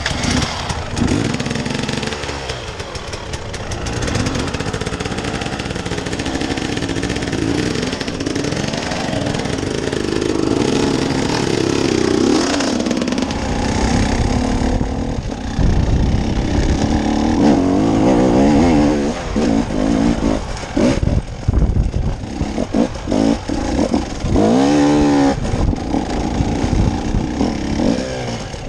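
Off-road vehicle engine working under load on a rocky trail, the throttle blipped and held in repeated bursts. The revving gets louder and choppier in the second half, with one clear rev up and back down near the end.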